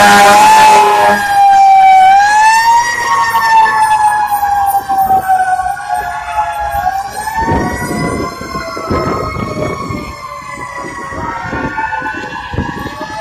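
Several fire truck sirens wailing at once, their tones overlapping as they slowly rise and fall. Loud for the first couple of seconds, then fading as the trucks move off.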